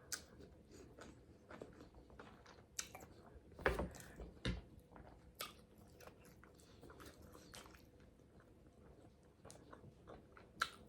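A person eating close to the microphone: scattered crunchy bites and chewing, loudest about four seconds in.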